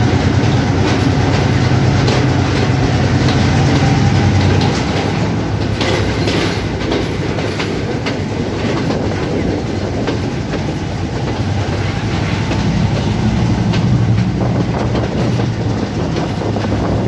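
Passenger train running on the rails, heard from an open carriage window: a steady rumble with the clickety-clack of the wheels. It is louder while the train is in a tunnel and drops in level about four and a half seconds in, as the train comes out into an open cutting.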